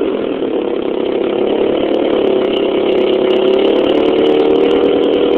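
Honda S2000 four-cylinder engine idling steadily just after a cold start, through a Veilside titanium catback exhaust with a test pipe in place of the catalytic converter.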